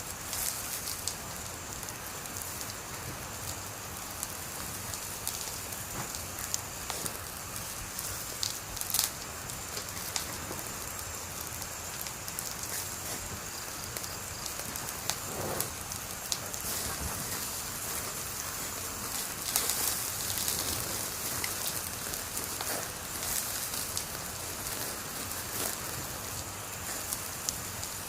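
Wood fire crackling: a steady hiss with scattered sharp pops and snaps, a cluster of them around two-thirds of the way through.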